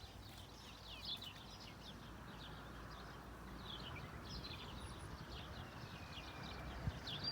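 Many small birds chirping at once: a dense chorus of short, quick, falling chirps that overlap, over a low steady rumble.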